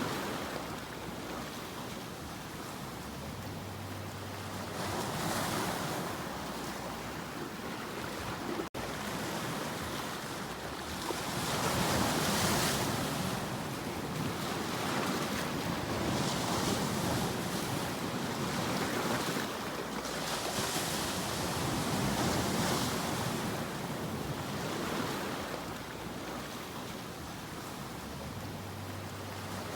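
Sea waves breaking and washing ashore in slow swells, each surge building and falling away over a few seconds. There is a split-second dropout about nine seconds in.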